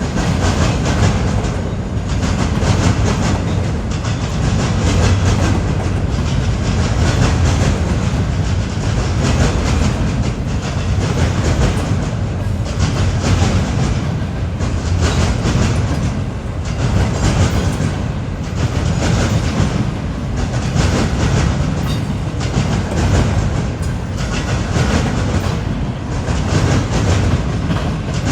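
Freight train cars rolling past at close range, their steel wheels clicking over the rail joints in a steady, continuous rhythm.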